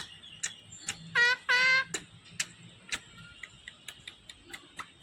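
A pet green parrot giving two short, loud wavering calls in quick succession about a second in, with scattered sharp clicks and ticks before and after.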